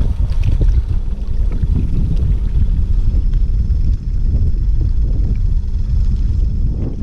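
Wind buffeting the microphone on a kayak, a loud, steady low rumble that dips briefly about four seconds in.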